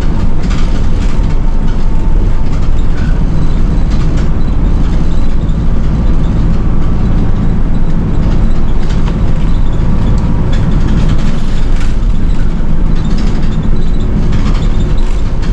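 City bus running along the road: steady low engine rumble and road noise, with occasional small rattles and clicks.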